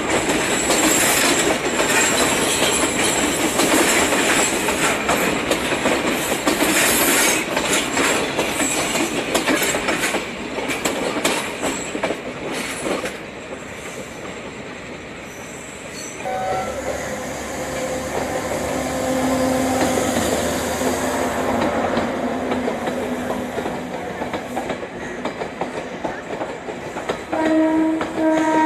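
A diesel-hauled passenger train passing, its wheels clattering over rail joints and points with a dense rumble that eases off as it draws away. Later a steadier pitched hum sets in, and near the end a loud train horn blast sounds.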